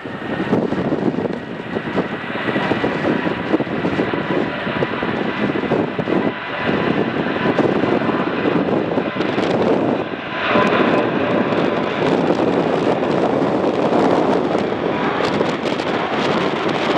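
Airliner engines running, a steady whine over a loud rushing noise that grows louder after about ten seconds.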